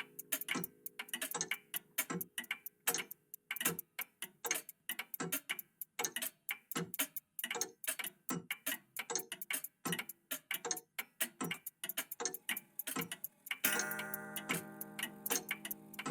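A vintage cuckoo clock and an old clock ticking together, their ticks falling out of step with each other. About two seconds before the end a sustained ringing tone, like a chime, comes in under the ticking.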